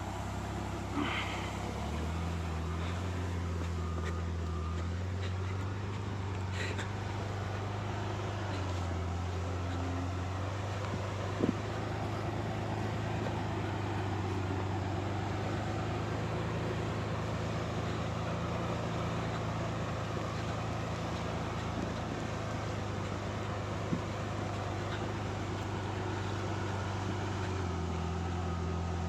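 Motor vehicle engine running steadily, with its pitch stepping up and down a few times as the revs change, and a couple of faint clicks.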